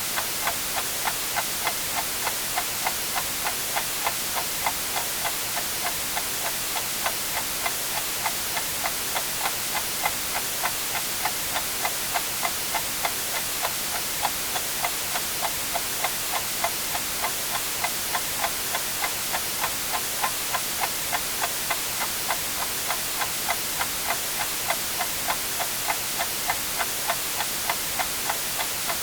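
Clock ticking steadily, about two ticks a second, over a constant hiss of white noise.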